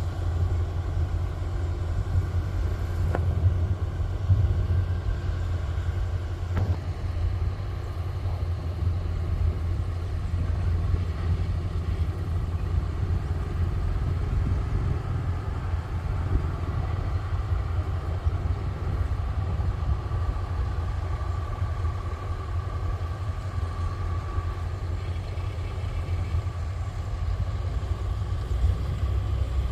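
Kubota rice combine harvester's diesel engine running steadily with a low drone. A faint high whine joins in past the middle.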